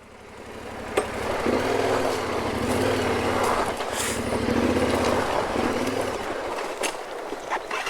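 Motorcycle engine running at low revs, its pitch wavering a little, over a steady rushing noise. The sound swells in over the first second or so, with a single click about a second in.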